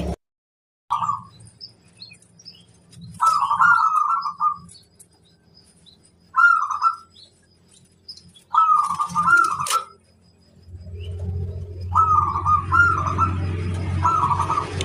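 Zebra dove (perkutut) cooing: about six short phrases of rolling, warbled notes with pauses between them. A low hum comes up under the last few phrases.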